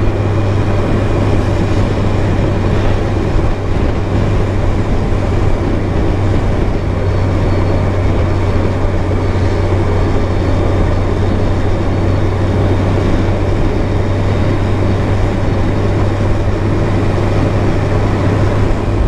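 Motorcycle engine running at a steady highway cruise: an unchanging low drone under wind and road noise, picked up by a helmet-mounted camera.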